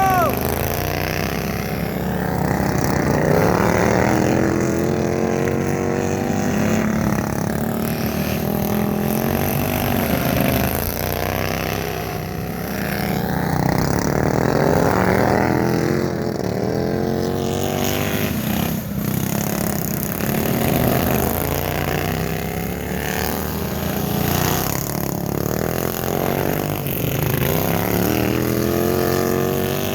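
Small engines of a racing minibike and a racing lawn mower running hard, their pitch climbing and dropping again and again as they rev and pass.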